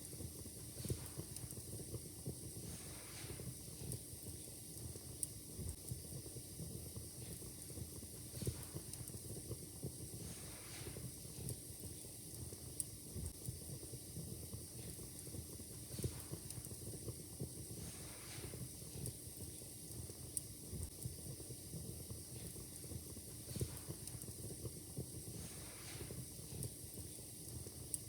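Wood fire in a fireplace crackling, with irregular sharp pops and snaps over a low steady rumble and hiss.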